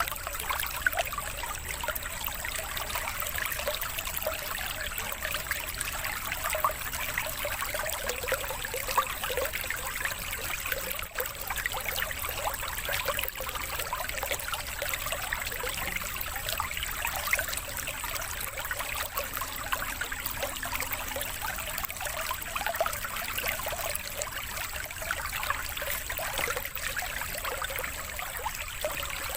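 Steady trickling, running water, the 'water therapy' background of a bird-mastering track, with a faint steady high tone.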